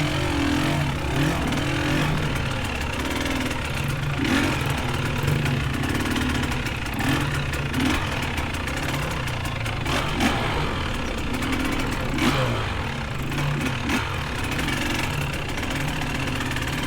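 Dirt bike engine pulling at low speed through mud, its note rising and falling with short throttle surges. A few sharp knocks are spread through it.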